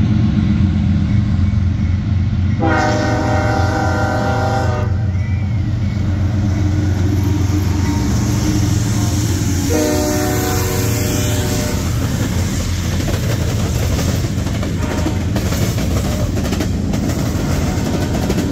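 CSX freight train passing at close range: the diesel locomotive's engine drones low while its horn sounds two blasts of about two seconds each, about three seconds in and again about ten seconds in. After that the freight cars roll past with wheel clatter.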